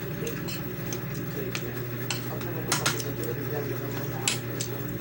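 Eating utensils clinking against a plate during a meal: a few sharp clicks, two in quick succession near the middle and one more near the end, over a steady low hum.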